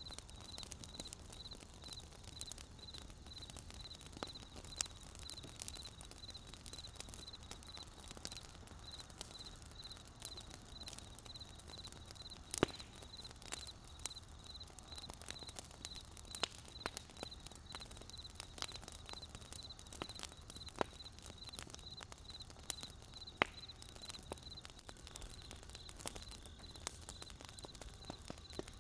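Burning campfire wood crackling, with irregular sharp pops, two louder ones about halfway through and near the end. A steady high pulsing chirp, a few pulses a second, runs underneath.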